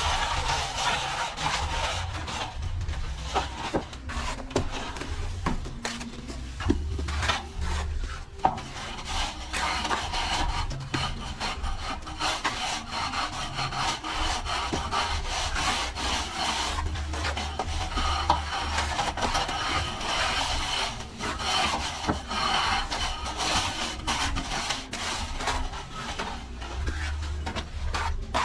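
Hand plastering tool rubbing and scraping over wet cement plaster on a wall: a continuous rasping rub with scattered small taps.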